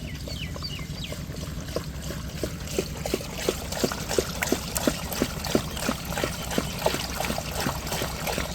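Water trickling and splashing as a tractor is washed, with a regular run of short plops, about three a second, through the middle, over a steady low hum.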